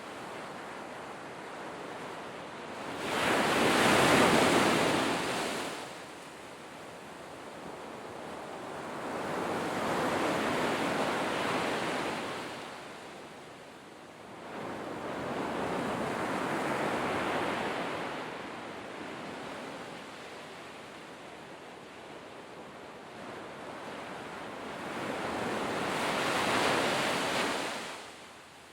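Sea waves breaking and washing up on the shore: four swells of rushing surf noise, the first, about three seconds in, the loudest, with a softer wash between them.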